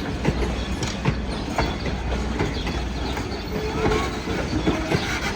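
Steam-hauled passenger train rolling by, a steady rumble with irregular clicks and clanks of wheels over rail joints and a brief wheel squeal about four seconds in.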